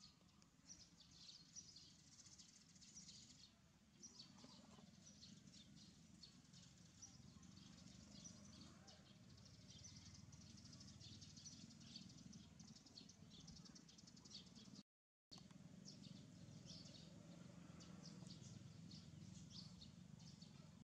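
Faint outdoor ambience: small birds chirping in quick short notes, over a low steady hum. The sound cuts out completely for a moment about fifteen seconds in.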